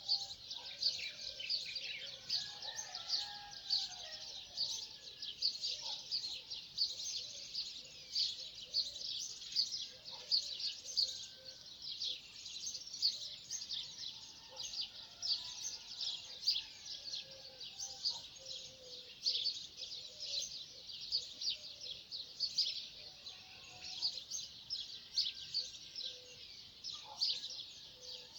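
A chorus of many birds chirping and twittering without pause, with a few lower, softer calls here and there beneath the dense high chirping.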